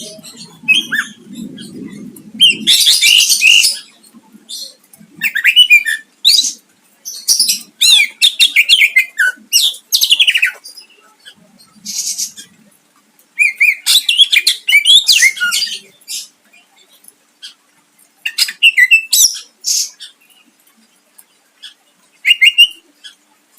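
Cucak ijo (green leafbird) singing in loud phrases of rapid, varied chirps and sweeping whistles, its song full of mimicked phrases of other birds, with a few harsh rasping bursts and short pauses between phrases.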